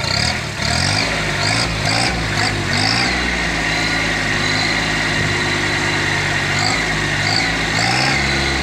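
Small tractor engine running with a sprayer, its speed rising and falling a few times before holding steady, then varying again near the end, with a steady high whine over it.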